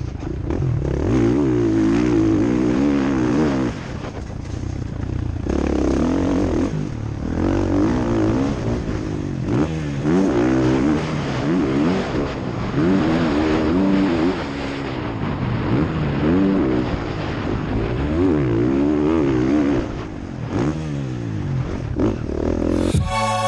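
Motocross bike engine heard from onboard, revving hard and backing off again and again as the rider throttles through the track's corners and jumps. Music cuts in right at the end.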